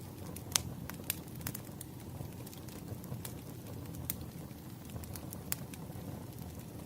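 Wood fire crackling: a steady low rumble of burning with scattered sharp pops and snaps, the loudest about half a second in, again a second in, and near five and a half seconds.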